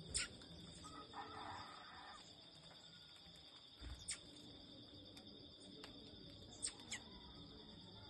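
Small birds giving short, high chirps that sweep steeply downward: one right at the start, one about four seconds in and two in quick succession near the end. Beneath them runs a steady high drone of insects.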